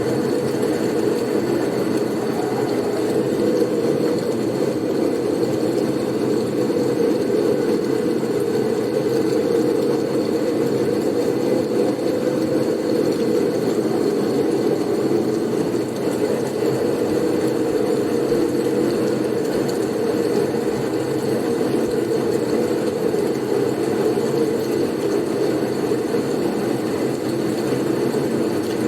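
Steady blizzard wind noise: a dense, unbroken rushing haze, strongest in the low-middle range, with no gusts standing out. A faint thin high tone sits steadily above it.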